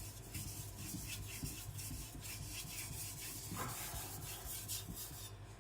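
Carbon-steel knife edge stroked back and forth on a Kitayama 4000 finishing whetstone with light pressure: a run of quick, short grinding strokes, several a second, easing off near the end.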